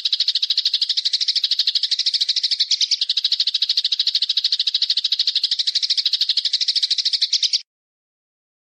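A bird's fast, even trill, a rapid run of high notes at about a dozen a second, held without a break and cutting off suddenly near the end.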